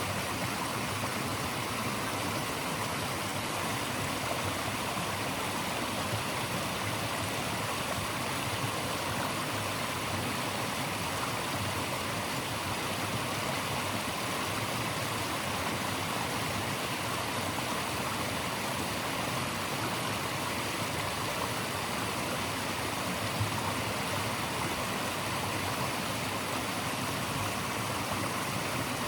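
Flowing water rushing steadily, an even, unchanging hiss of natural white noise.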